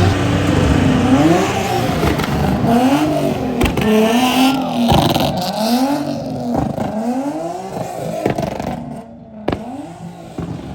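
A car or truck engine revving hard again and again, its pitch climbing and dropping about once a second over a hiss that may be spinning tyres at a burnout. It grows quieter near the end.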